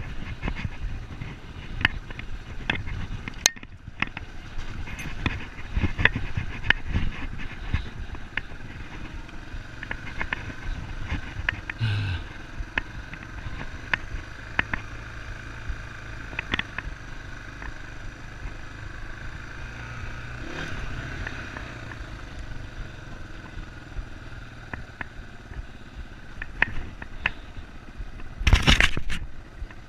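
Yamaha Serow enduro motorcycle's single-cylinder engine running at low speed over rough ground, with frequent knocks and rattles as the bike bounces along. A loud rushing burst comes near the end.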